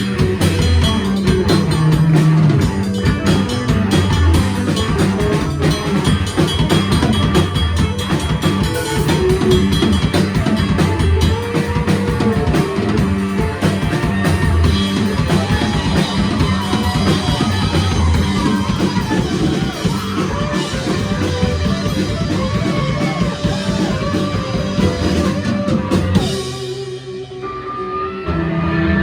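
Live rock band playing with drum kit and guitars. About 26 seconds in, the drums and cymbals stop and a few held notes ring for a couple of seconds before the full band comes back in.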